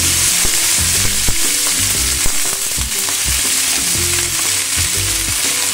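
Cut okra frying in hot oil in a frying pan, a steady loud sizzle, with a few light knocks in the pan.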